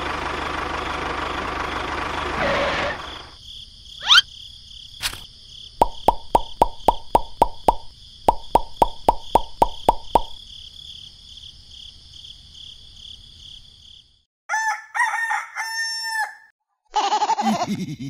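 A steady rushing noise for the first three seconds, then a quick rising whoosh and a run of sharp clicks, about four a second. A rooster crows near the end.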